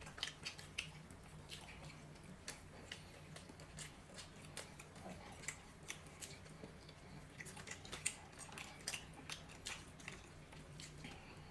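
People chewing and biting meat off roast chicken pieces: scattered small irregular clicks and smacks of eating, over a low steady hum.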